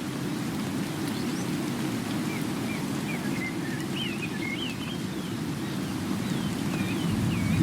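Small birds chirping in short up-and-down whistles, many through the stretch, over a steady low rush of rain.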